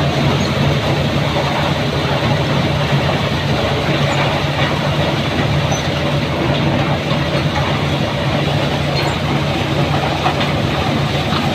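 Eicher tractor's diesel engine running steadily with a constant low hum.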